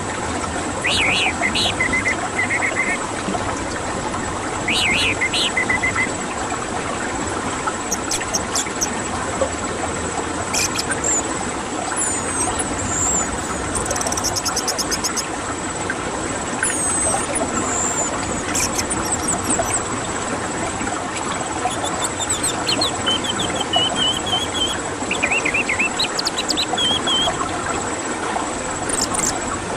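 Songbird calls: short whistled notes about a second in and again around five seconds, high thin chirps scattered through the middle, and more whistles near the end, over a dense steady hiss.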